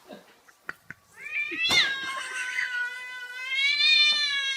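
A cat giving one long, drawn-out meow, rising at the start and then held steady for about three and a half seconds. A few short clicks come before it.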